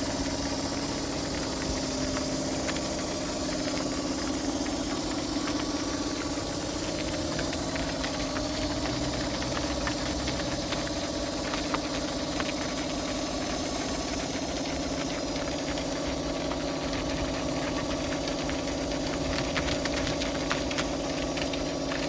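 Pressure washer running steadily, its motor and pump holding a constant hum under the hiss of the spray, with scattered small ticks and spatters.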